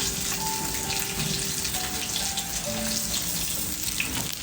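Steady sizzling hiss of food cooking over a wood fire, with a few faint held whistling tones that change pitch.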